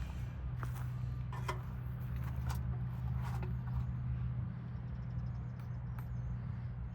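A steady low mechanical hum, with a few short knocks and scrapes in the first half.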